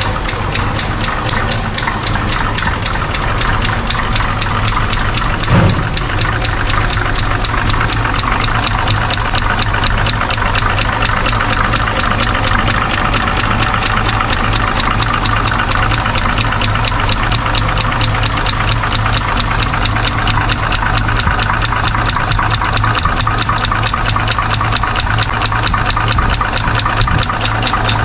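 Straight-six engine of a 1963 Chevy 4x4 truck idling steadily just after starting, with a fast, even ticking from the valvetrain, its freshly freed valves and replaced pushrods at work. A single short thump about five and a half seconds in.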